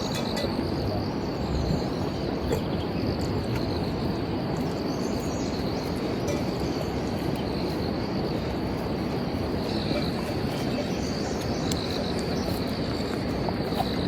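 Crickets or similar insects trilling in one steady high band over an even, continuous outdoor wash of noise, with a few faint bird chirps.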